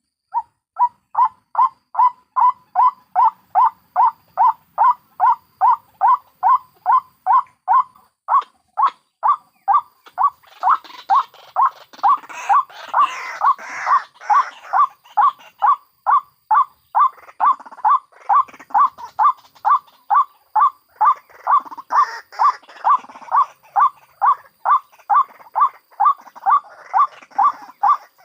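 White-breasted waterhen calls (ruak-ruak) played as a trapping lure: one note repeated evenly, about three times a second. About ten seconds in, and again after twenty, a second, scratchier layer of waterhen calls joins over it.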